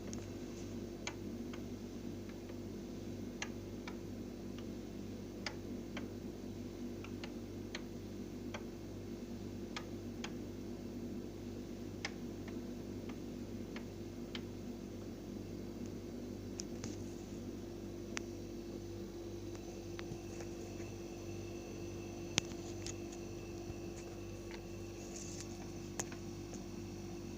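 Beko CNMV 5335EA0 W refrigerator running with a steady hum, with sharp clicks at irregular intervals, often a second or two apart. This is the constant clicking and humming the owner complains of as loud enough to make sleep impossible.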